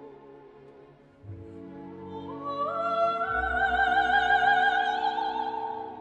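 Background music: an operatic singing voice with strong vibrato climbs in steps to a long held high note over an orchestral accompaniment.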